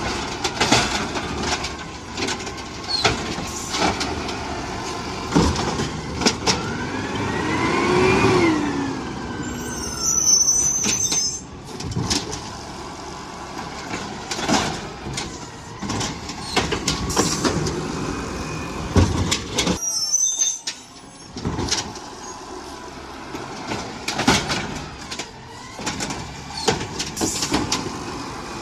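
Garbage truck at work: its engine rises in pitch and falls again about eight seconds in, among many sharp clanks and knocks throughout.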